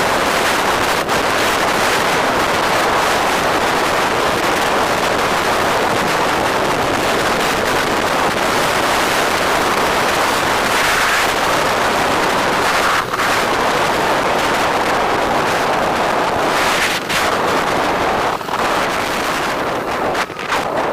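Steady rushing wind noise on the microphone of a moving bike, mixed with road and traffic noise, with a few brief dips in the rush near the end.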